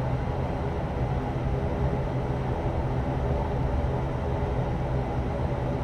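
Steady drone of an ATR turboprop airliner's engines and propellers heard inside the cabin: a low hum of several held tones over a rushing hiss, unchanging in level.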